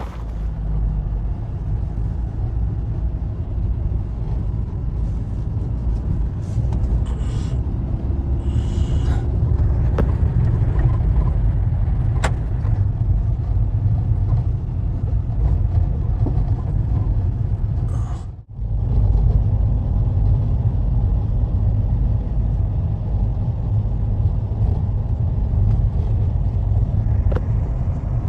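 Blizzard wind blowing hard, heard mostly as a steady low rumble of wind buffeting the microphone, with a few faint clicks. The sound cuts out briefly about eighteen seconds in.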